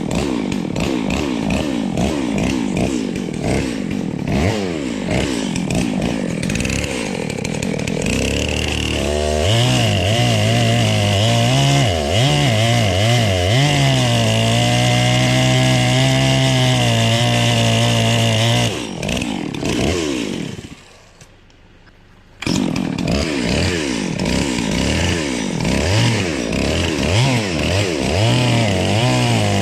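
Chainsaw running, revving up and down, then held at steady high revs for about nine seconds. It falls away for a couple of seconds about two-thirds of the way through, then comes back, revving up and down again.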